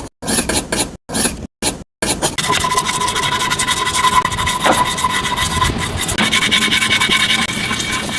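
Abrasive rubbing on a small building part: first quick separate rasping strokes, about three a second, then from about two seconds in a continuous scraping with a steady high whine running through it.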